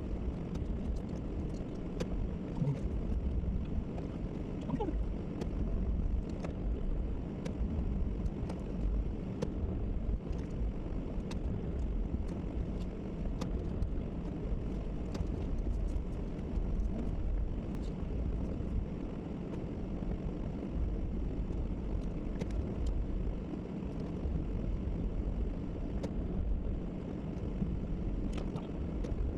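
Plow truck running with a steady low rumble.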